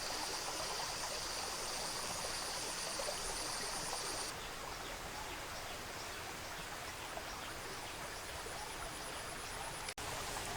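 Running water of a stream, a steady rushing hiss. For the first four seconds an insect trills with a fast pulsing high buzz, which cuts off suddenly.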